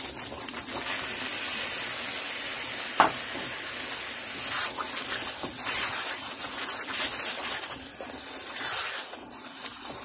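Masala sizzling in a hot wok as green peas are tipped in, then a spatula stirring and scraping through the frying paste in repeated strokes. A single sharp knock about three seconds in.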